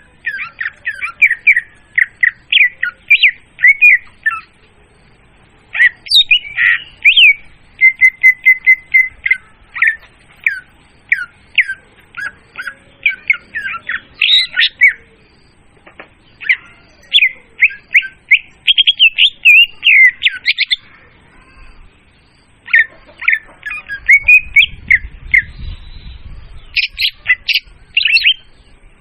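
Murai daun (leafbird) lure song: loud, clear, high-pitched strings of rapid chirps and whistled notes in phrases several seconds long, broken by short pauses. A faint low rumble lies under the song for a few seconds near the end.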